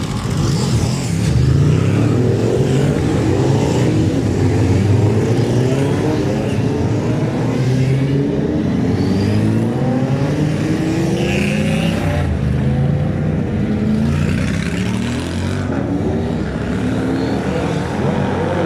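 Classic motorcycle engines accelerating, their pitch climbing and dropping back again and again as they shift up through the gears, with more than one machine heard at once.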